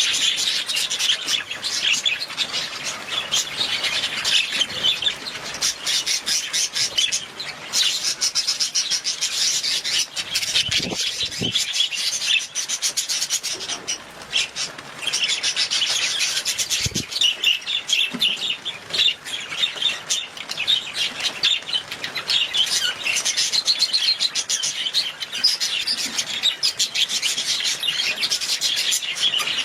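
Budgies (budgerigars) chattering nonstop in a dense stream of overlapping chirps, with two brief low thumps about eleven and seventeen seconds in.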